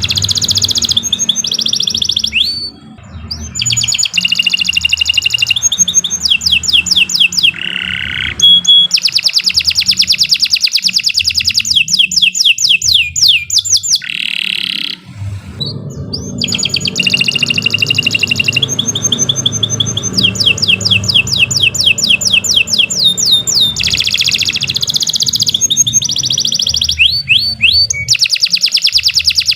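Domestic canary singing a long song of rapid trills: runs of fast repeated notes, each run at its own pitch, changing every second or two with only brief pauses.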